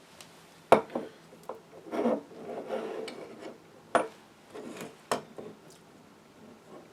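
Handling noises as a part of the radio's variocoupler is worked loose and lifted out: a few sharp knocks and clicks, about five in all, with scraping and rubbing between them.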